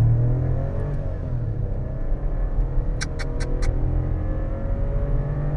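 Tuned VW Virtus 1.0 TSI three-cylinder turbo petrol engine pulling at full throttle from a drag-race launch, heard inside the cabin, its pitch rising as it gains speed. Four short high-pitched chirps come in quick succession about three seconds in.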